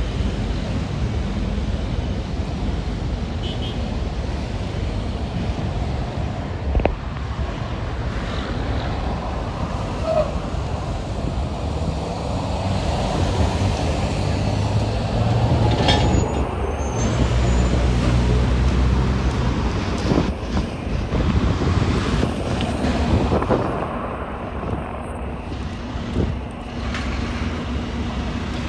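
Expressway traffic: trucks and cars passing, with a steady low drone of heavy diesel engines and tyre noise that swells and fades as vehicles go by.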